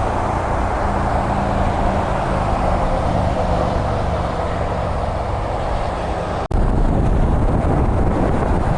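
Road traffic noise: vehicles running along a highway, a steady rush with a low engine hum. About six and a half seconds in there is an abrupt cut, after which the low rumble is louder.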